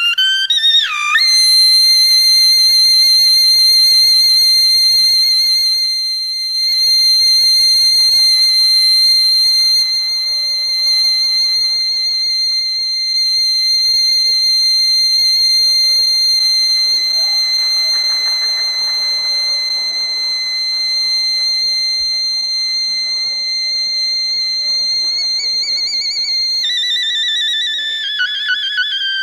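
Suona (Chinese double-reed shawm) holding one very high, piercing note without a break for about 25 seconds. A quick swoop leads into it, the note wavers near the end, and the line then steps down to lower notes.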